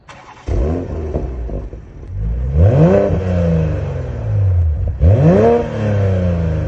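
Toyota Supra with an Akrapovič aftermarket exhaust being revved: a couple of short blips, then two sharp revs, each climbing quickly and falling back slowly.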